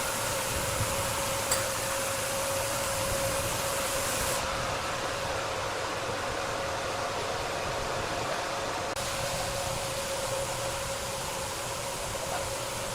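Powered wood saw running steadily, a constant mechanical hum with a single steady tone over dense hiss.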